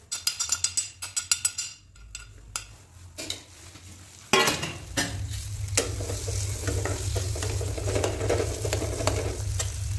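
A steel spatula scrapes and taps quickly against a nonstick kadhai while stirring crushed onion masala. From about four seconds in, the masala sizzles steadily as it fries in oil, with the stirring going on.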